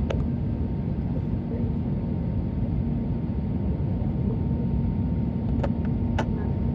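Steady cabin noise inside an Airbus A320neo airliner: a low rumble with a faint steady hum, broken by a sharp click at the start and two more clicks or knocks near the end.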